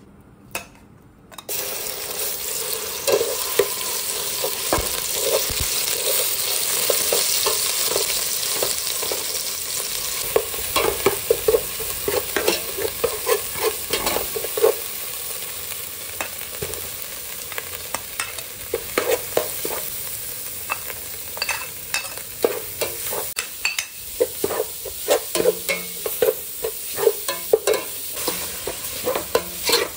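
Spice paste sizzling in hot oil in a stainless steel pot, starting a second or so in, with a metal spatula and ladle scraping and clicking against the pot as it is stirred.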